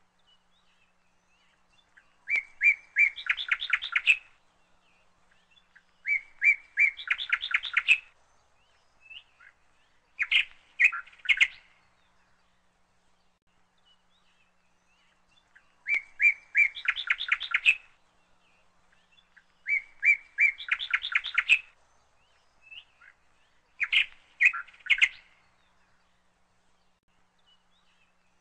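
A bird chirping in repeated phrases: each phrase is a few quick chirps running into a fast trill, about two seconds long, recurring every four seconds or so, with a longer pause near the middle.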